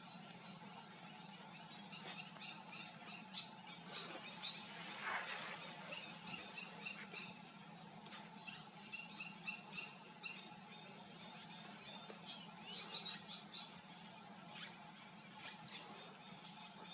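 Birds calling: scattered short, high chirps, a quick run of repeated notes about halfway through, and a cluster of sharp calls near the end, over a steady low hum.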